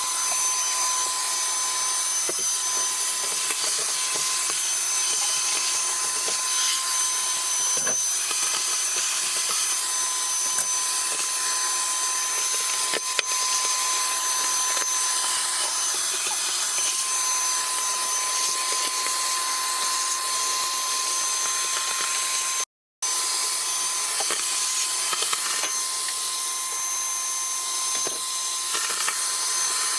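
Wet/dry shop vac running steadily with a high motor whine, its nozzle scraping and rubbing over the car's interior. The sound drops out for a moment about three-quarters of the way through, then carries on.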